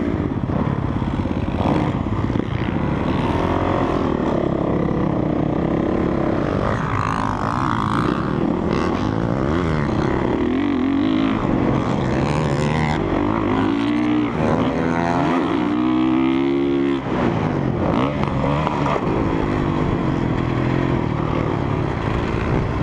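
Single-cylinder four-stroke engine of a Honda CRF450R motocross bike being ridden hard, its revs climbing and dropping again and again as it is throttled and shifted, with a steady rush of wind noise.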